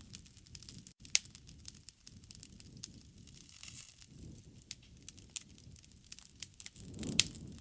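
Wood fire crackling, with irregular sharp pops (the loudest about a second in and near the end) over a low rumble that swells and fades.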